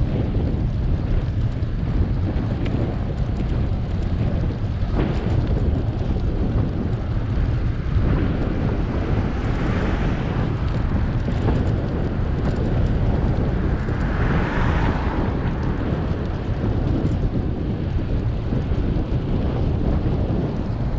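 Wind buffeting the microphone of a camera on a moving bicycle: a steady low rumble, with a brief hiss swelling twice, about ten and fifteen seconds in.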